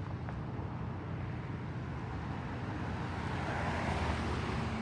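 A moving vehicle's steady engine hum and road noise, swelling a little about four seconds in.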